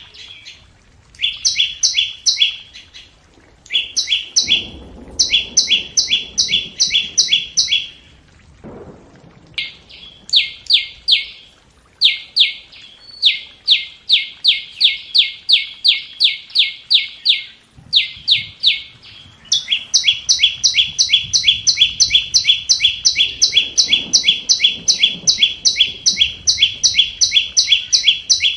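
Flowerpecker (chim sâu) calling: rapid runs of short, high, downward-sliding 'tsit' notes, about four to five a second, in bouts with brief pauses and then a long unbroken run in the second half. It is a decoy call used to lure wild flowerpeckers to a trap.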